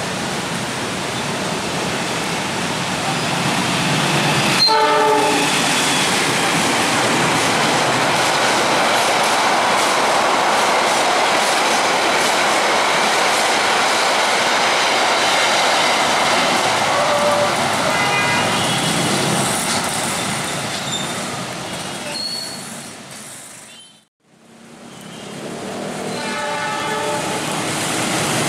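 Passenger trains running at speed on wet track: a steady rumble and rush of wheels on rail, with a short locomotive horn blast about five seconds in and more horn notes later. The sound fades out for a moment near the end, then returns as another train approaches.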